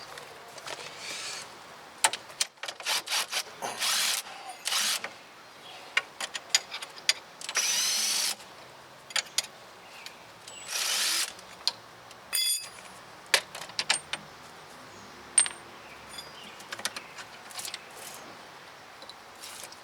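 Power tool, most likely a cordless impact wrench, run in several short bursts to tighten a fastener, with sharp metallic clicks and knocks of tools and parts between the bursts.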